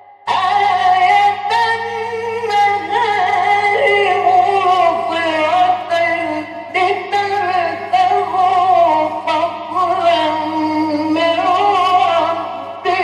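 Male Quran reciter chanting in the ornamented mujawwad style: a long, winding melodic phrase that begins just after a brief pause, over a steady low hum.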